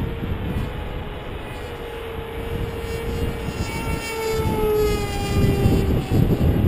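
Electric motor and propeller of a Ritewing Zephyr II RC flying wing in flight, a steady whine that drops in pitch about four to five seconds in as the plane passes, over low rumbling noise.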